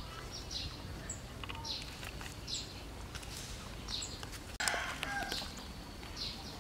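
Birds chirping, short high chirps repeating about once or twice a second. A little past halfway the sound drops out for an instant and comes back with a brief noise burst.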